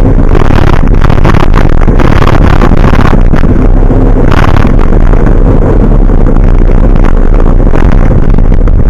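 Road vehicle driving, its steady low engine and road rumble loud enough to overload the microphone, with short rushes of noise every second or so.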